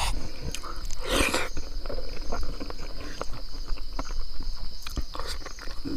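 Close-mic eating sounds, chewing with small clicks and a brief rushing slurp-like noise about a second in, over a steady high-pitched insect drone.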